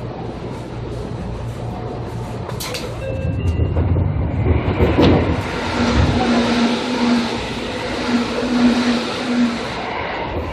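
2000 series train running on rails. The rumble grows louder about three seconds in, with a steady hum for a few seconds in the second half before it eases off.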